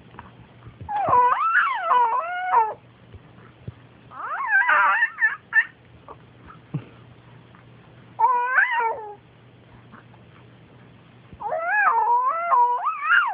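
A pet's loud, wavering cries, four of them, each one to two seconds long with the pitch sliding up and down. They are the cries of an animal that is getting upset.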